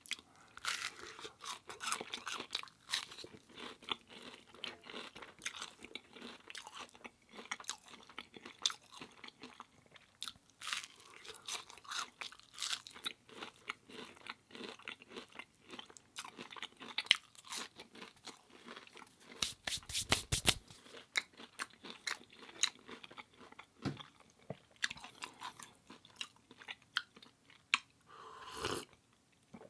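Close-miked eating sounds: steady chewing with many small, crisp crunches. About two thirds of the way through there is one short, louder burst.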